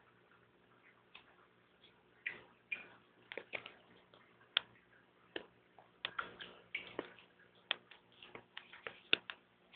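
A budgie bathing in water: faint, irregular little ticks and taps, starting about two seconds in and coming in quick clusters.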